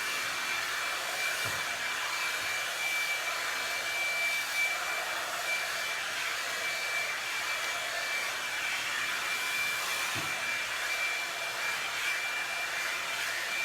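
Revlon One-Step hair dryer and styler, a paddle-brush blow dryer, running steadily on its low heat setting: even air noise with a thin high whine held over it.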